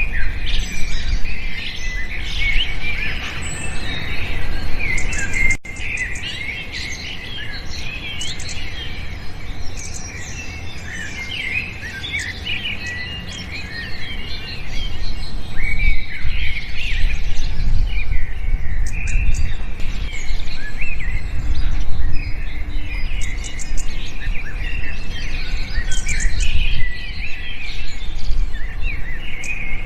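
A chorus of many small birds chirping and twittering at once, short overlapping calls and trills, over a low background rumble. The chirping grows quieter for a stretch after a brief dropout about five seconds in, then picks up again about halfway through.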